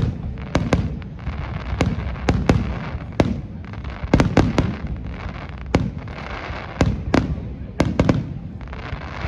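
Aerial fireworks display: a rapid, irregular series of sharp shell bursts, roughly two a second, over a continuous hiss.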